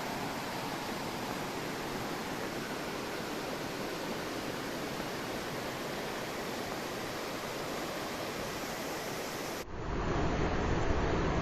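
Steady rush of river water flowing over rocks. Near the end it cuts abruptly to a louder, deeper rush of water.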